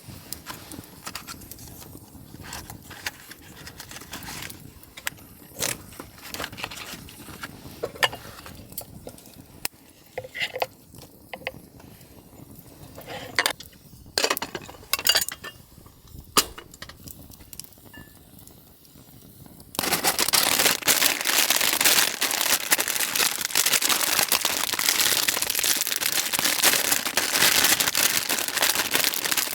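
Scattered sharp crackles and snaps. About twenty seconds in, these give way to loud, continuous crinkling of packaging being handled or crumpled.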